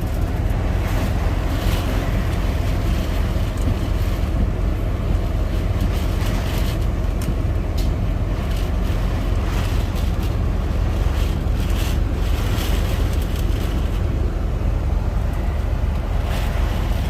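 Storm wind and heavy rain buffeting a truck cab: a steady rushing noise over a deep low rumble, with frequent short spatters.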